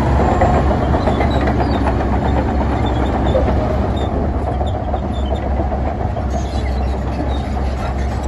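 Heavy diesel earthmoving machinery running, a steady loud low rumble with a rattling clatter over it and no break.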